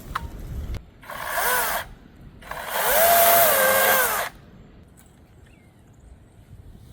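Battery-powered chainsaw run in two short bursts, its motor whine rising, holding and falling each time; the second burst is longer and louder.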